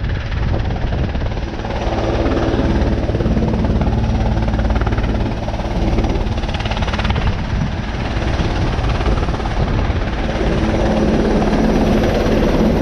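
Sikorsky S-61 helicopter on final approach: steady rotor beat and engine noise, growing a little louder about two seconds in.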